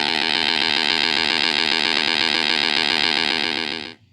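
Triplane's propeller engine buzzing steadily, a loud sound effect with a fast, even pulsing, cutting off abruptly about four seconds in.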